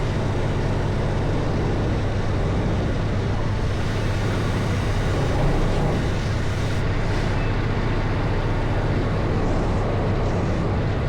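Semi-truck's diesel engine running steadily with a low, even hum.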